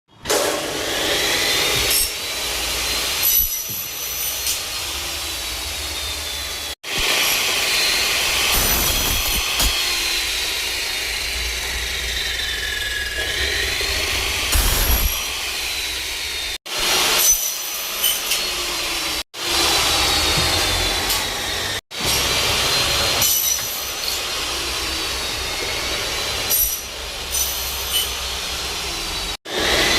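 Power saw cutting aluminium section, with a high-pitched screeching whine that bends up and down in pitch as the blade bites. The sound breaks off abruptly and restarts several times.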